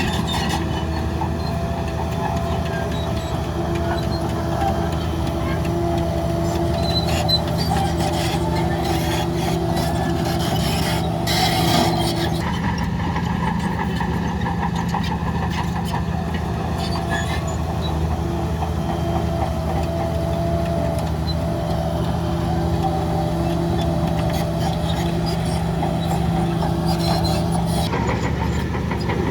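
Heavy diesel earthmoving machinery running steadily, its engine note holding level throughout. There is a brief hiss about eleven seconds in.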